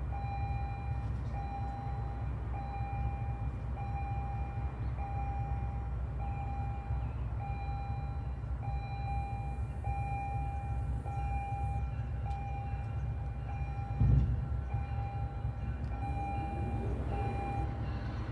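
MBTA commuter train rumbling steadily while a bell rings in a regular beat about once a second. A single loud thump comes about fourteen seconds in, and a faint rising sound enters near the end.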